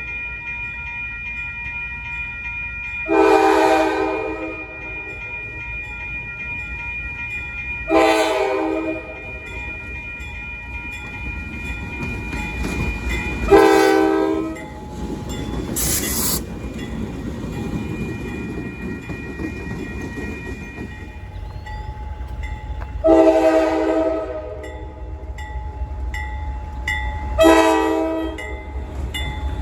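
Locomotive air horn sounded in five separate blasts of about a second each, spaced several seconds apart, over the steady low rumble of a train. A brief hiss comes about halfway through.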